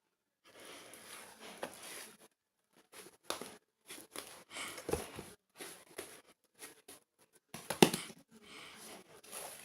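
Hands squishing and folding a soft whipped-cream slime, in irregular bursts with short pauses, the loudest just before eight seconds in.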